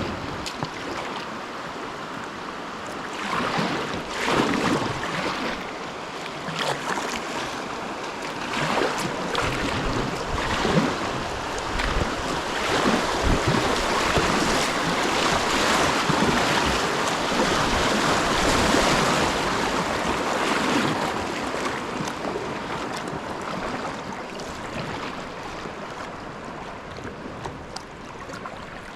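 Rushing whitewater of river rapids around a kayak, with repeated splashes of paddle strokes; the rush grows louder through the middle and eases off near the end.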